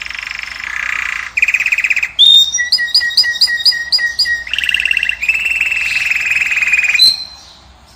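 A caged finch (goldfinch or canary type) singing a long, varied song: buzzy trilled phrases, then a run of clear repeated notes about five a second, then another buzzy trill. The song stops abruptly about seven seconds in.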